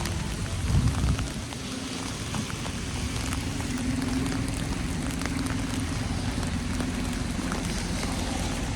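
Steady patter of falling wet snow or rain, with many small drop ticks. A low thud sounds about a second in, and a steady low drone sits underneath from about two seconds in.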